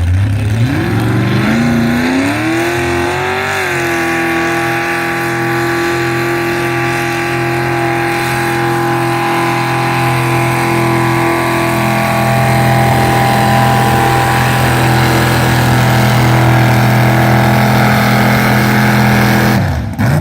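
Modified two-wheel-drive pulling truck's V8 engine revving up over the first few seconds, then held at high, steady revs under load through the pull, and cutting off sharply near the end.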